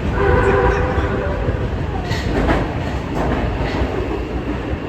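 Kita-Osaka Kyuko 9000 series subway train running in a tunnel: a steady low rumble with a brief whine in the first second and a few wheel clicks over rail joints.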